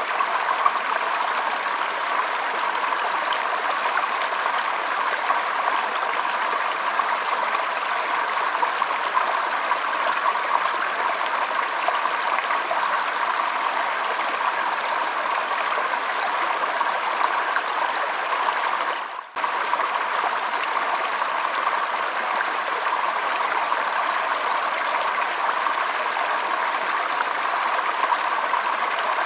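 Shallow stream flowing and trickling: a steady rush of water, with a split-second dropout about two-thirds of the way through.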